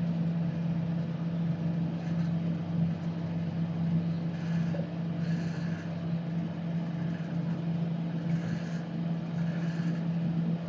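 Versus microwave oven running, a steady low hum from its transformer and magnetron, heating a load of water as a test of a freshly replaced magnetron.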